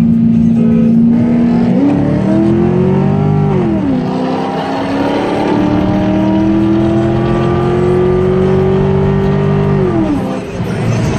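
C5 Corvette's LS1 V8 accelerating hard, heard from inside the cabin. The engine runs steady, then the revs climb from about two seconds in. They drop at an upshift a little under four seconds in, climb again through the next gear, and fall as the throttle closes near the end.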